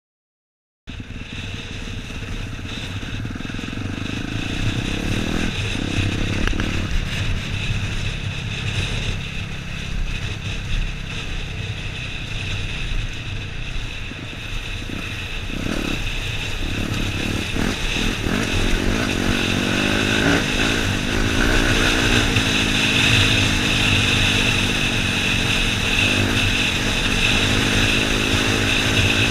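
Dirt bike engine running as the bike is ridden, its revs rising and falling. The sound starts abruptly about a second in.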